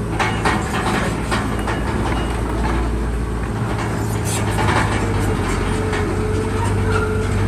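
Crawler bulldozer's diesel engine running steadily under load, with the metal tracks clanking and rattling in irregular knocks.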